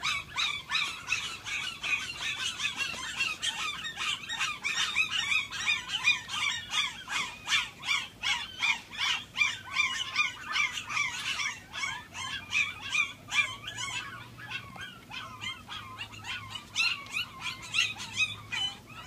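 Several puppies whining and yelping, their high cries overlapping almost without a break.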